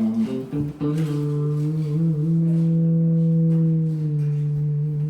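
Electric guitar played through an amplifier: a few quick notes, then a long sustained note held steady for about four seconds.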